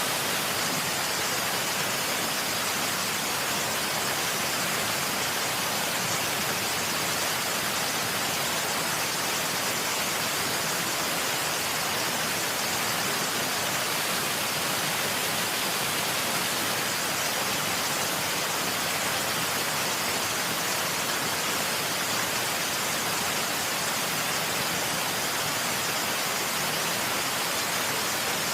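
A steady, even hiss that is strongest in the high range and does not change at all, with no distinct events in it.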